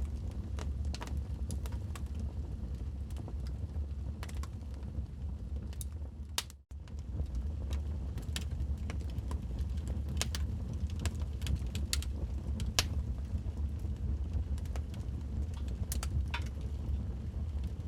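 Wood fire crackling in a fireplace: irregular sharp pops and snaps over a steady low rumble of the burning logs. The sound cuts out for a split second about six and a half seconds in.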